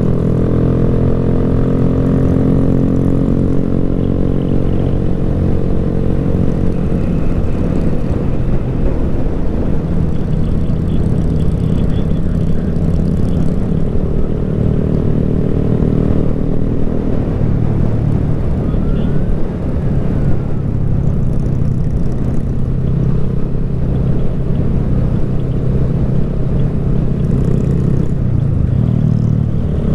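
Motorcycle engine running under way on a ride, easing off in the first few seconds, then holding a steady speed.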